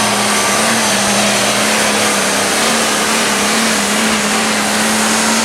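Diesel super stock pulling tractor engine running flat out under load, a loud, dense, steady roar with a constant low drone held throughout.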